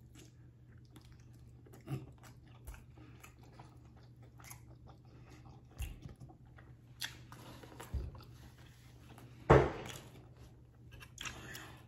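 Close-miked chewing and mouth smacks of someone eating oxtail off the bone: scattered short clicks and smacks, the loudest a couple of seconds before the end.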